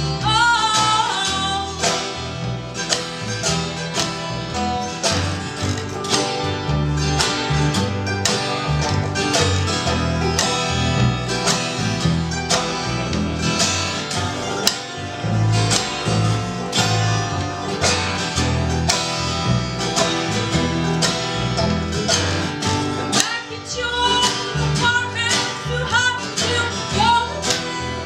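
Live old-time folk band playing acoustic guitar and plucked strings in a steady rhythm, mostly instrumental. A voice sings briefly at the start and comes back in near the end.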